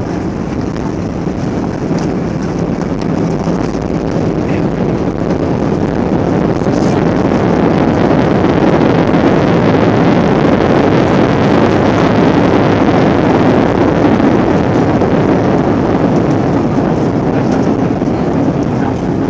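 Airbus A320 engines roaring in reverse thrust during the landing rollout, heard from inside the cabin. The roar swells over several seconds and then eases off as the aircraft slows.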